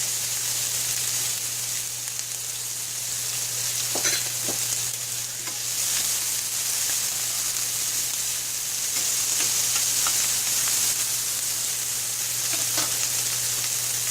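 Chopped onion and garlic sizzling in hot olive oil in a frying pan, a steady frying hiss with light stirring. There are a couple of brief clicks, about four seconds in and near the end, over a steady low hum.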